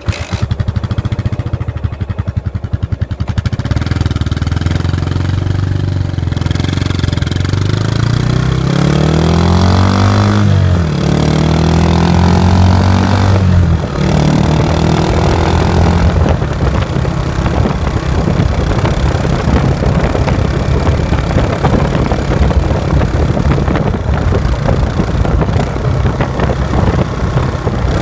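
Yamaha SR400 FI air-cooled single-cylinder engine through an aftermarket Pranas muffler, coming in suddenly at idle with a distinct pulse, then accelerating in two rising runs with a gear change between, and running steadily at road speed.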